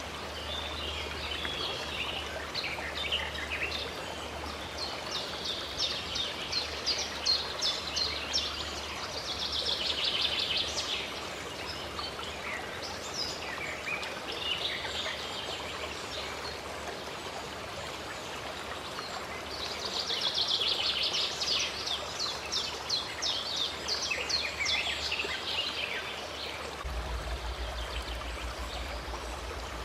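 Small songbirds singing in bouts of rapid chirps and trills over the steady rush of running water. The birdsong swells twice, about a third of the way in and again past the middle.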